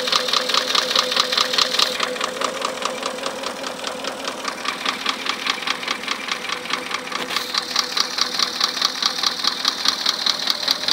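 Porsche Cayenne 4.8 V8 engine running with a steady, regular knock several times a second from the fifth and sixth cylinders. The knock comes from a scored fifth cylinder wall and a damaged piston.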